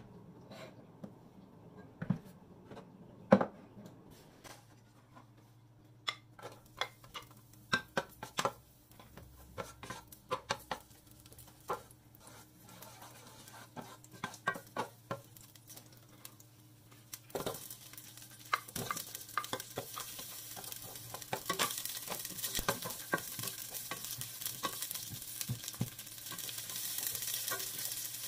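A few knocks, then a wooden spatula clicking and scraping in a pot as garlic cooks in oil. About two-thirds of the way through a sizzle starts and grows louder as onions fry in the hot oil, with the spatula still tapping against the pot.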